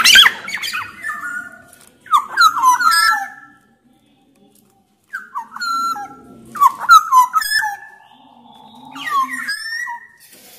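Black-naped oriole singing: four loud bursts of quick, fluty whistled notes with pauses between them, and a short silence just before the middle.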